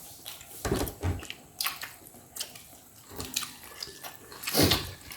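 Wet chewing and lip-smacking of someone eating roast chicken: irregular small clicks and squelches, with a louder wet burst about four and a half seconds in.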